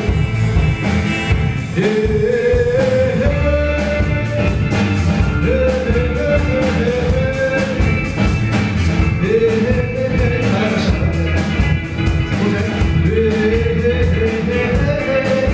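Rock band playing live: drums, bass and guitars keeping a steady beat under a melody line that rises and falls in phrases of a few seconds, in a passage between sung verses.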